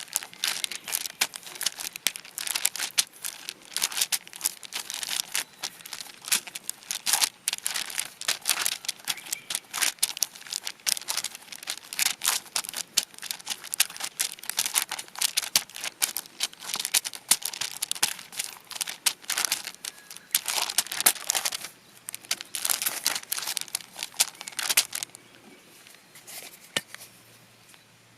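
Something being crinkled and crumpled by hand, in quick irregular bursts, dying away about 25 seconds in.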